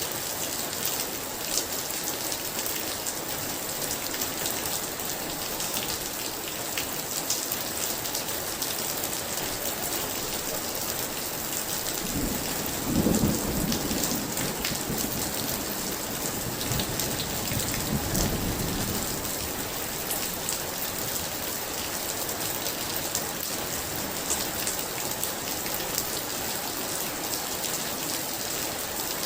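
Heavy rain falling steadily, with dense patter of drops striking a surface. About twelve seconds in, a roll of thunder rumbles for several seconds, peaking early and swelling again before fading.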